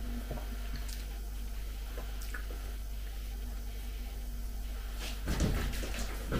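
Low steady room hum with a few faint ticks, then, about five seconds in, a short burst of close crackly eating noises: a bite and chewing of a chocolate-covered marshmallow.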